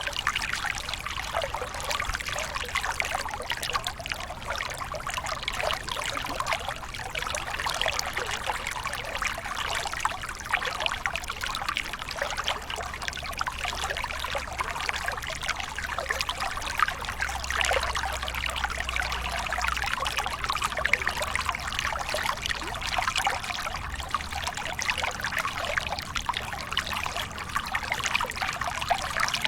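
Waterfall: water pouring and splashing steadily, an even rushing hiss that does not change.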